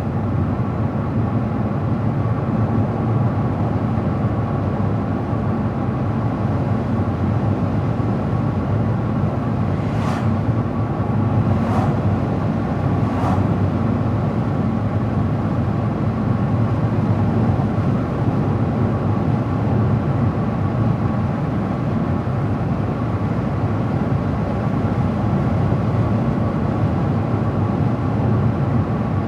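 A car driving steadily along a road, a constant rumble of tyre and engine noise. Three short clicks come about ten to thirteen seconds in.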